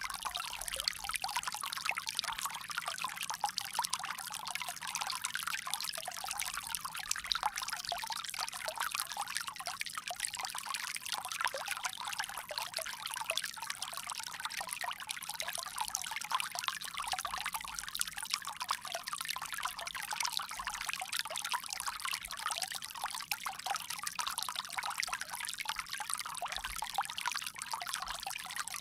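Water pouring from a bamboo spout in a steady, unbroken splashing trickle.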